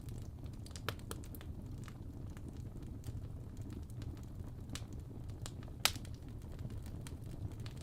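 Wood fire crackling: scattered sharp pops over a low, steady rumble, with one louder pop about six seconds in.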